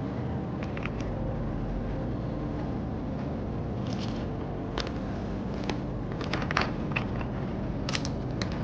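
Steady low room hum with scattered light clicks and taps of small objects being handled, more frequent in the second half.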